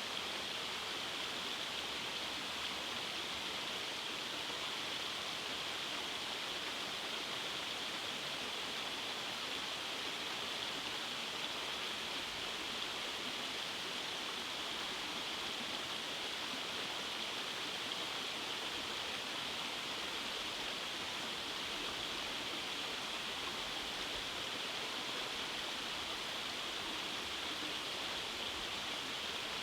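Rainforest stream running over rock cascades, a steady even rush of water with a hissy, high-pitched edge.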